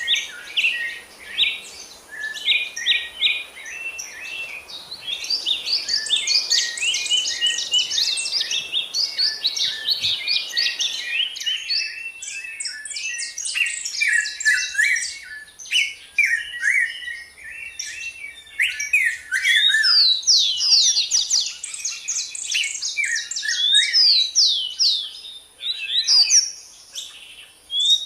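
Many small birds chirping and singing at once: a dense chorus of quick, sharp chirps and short sweeping notes that hardly pauses.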